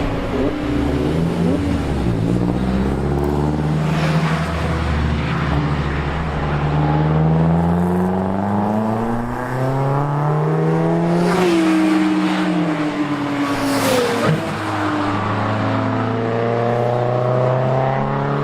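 Unsilenced racing car engines at speed on track, pitch climbing and falling as they accelerate through the gears and brake, with sharp drops at gear changes about eleven and fourteen seconds in as cars pass.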